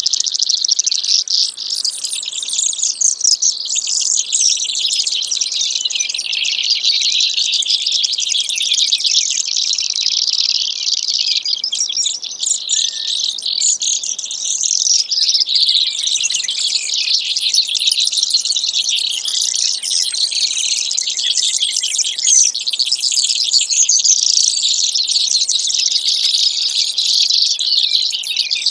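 Brewer's sparrow song: long, fast buzzy trills and rattling runs that shift in pitch, going on with hardly a break.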